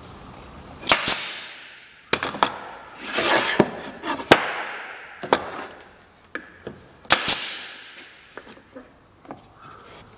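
Sharp knocks of hard wood striking wood, several in quick pairs, with brief rubbing and scraping noise between them as white oak stool parts are handled and fitted.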